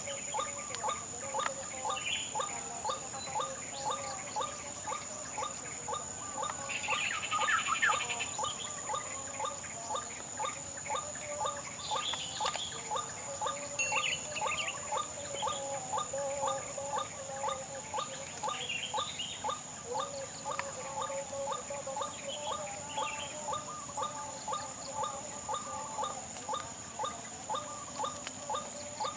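White-breasted waterhen (ruak-ruak) calling, a monotonous repeated call about two times a second. A steady high-pitched tone and scattered higher chirps sit behind it, louder about a quarter of the way in.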